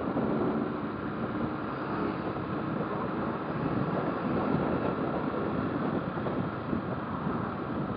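Motorcycle riding along: its engine runs under steady wind and road noise, with the engine's hum clearest in the first second.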